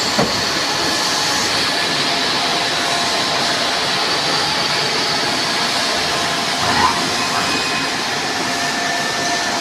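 CNC machine running a boring cut: a steady rushing hiss with several steady whining tones over it.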